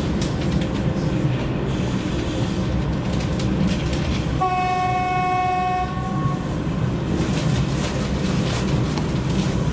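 Passenger train behind a TEP70 diesel locomotive running at speed, a steady rumble with wheels clicking over the rail joints. About halfway through, a train horn sounds one chord-like blast of about a second and a half.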